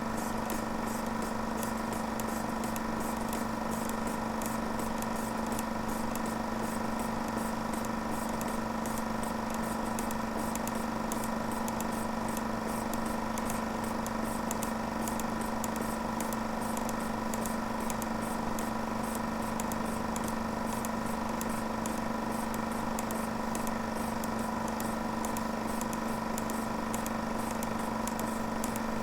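A small mechanism running steadily, with a fast, even clatter over a constant hum.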